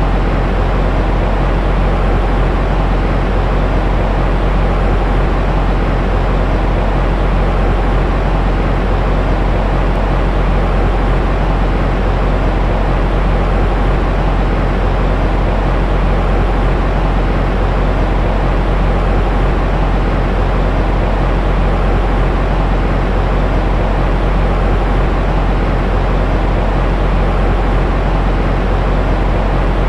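Steady white noise for soothing a baby to sleep, loud and unchanging, heaviest in the deep low end and dull on top.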